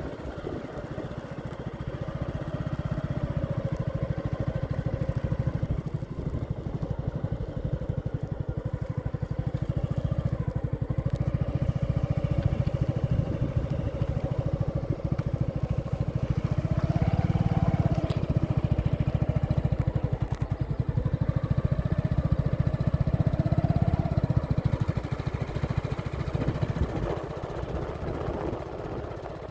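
Motorcycle engine running while being ridden: a steady low drone that grows a little louder after the first couple of seconds. The engine note rises slightly twice in the second half as the throttle opens.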